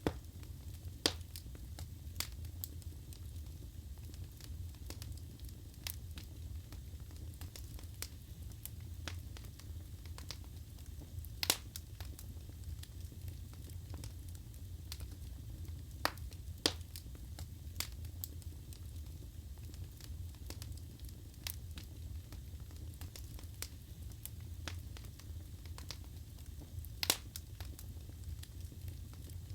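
Wood fire burning in a fireplace: a steady low rumble of flame with scattered crackles and a few sharper pops of the burning logs.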